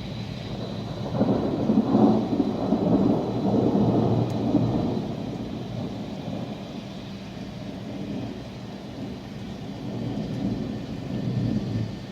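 Thunder rumbling, swelling about a second in and dying away over several seconds, with a smaller swell near the end, over steady rain.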